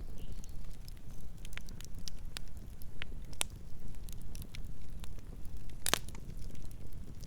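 Wood campfire burning: a steady low rumble of flames with scattered sharp crackles and pops, one louder snap about six seconds in.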